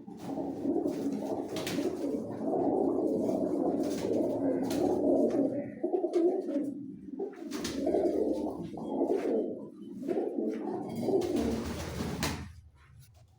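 Several pigeons cooing continuously in overlapping low calls, with scattered sharp clicks among them. The sound dies away near the end.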